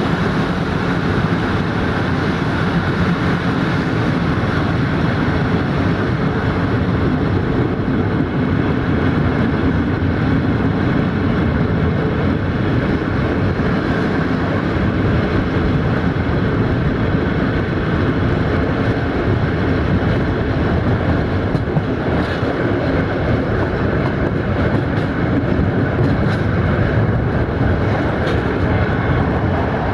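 Passenger train running steadily at speed, heard through an open carriage window: a continuous noise of the wheels on the rails.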